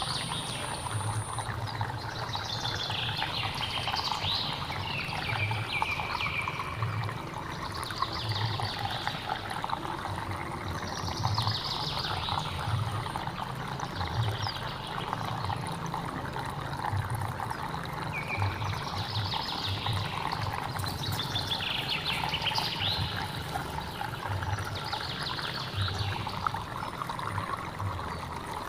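Stream water trickling and gurgling steadily, with birds calling over it every second or two.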